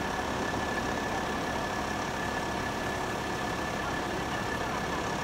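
A vehicle engine idling steadily, with a faint high whine held at one pitch.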